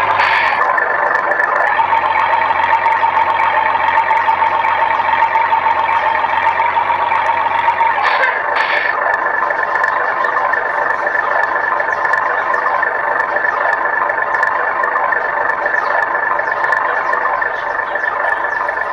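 Electronic engine sound from the sound module of a radio-controlled Scania V8 truck, played through its small speaker: a steady buzzing drone that changes pitch about eight seconds in.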